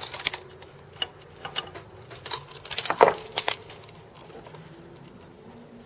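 Small metal lathe parts clicking and clinking as they are handled: a quick irregular run of sharp clicks, loudest about three seconds in, stopping about three and a half seconds in.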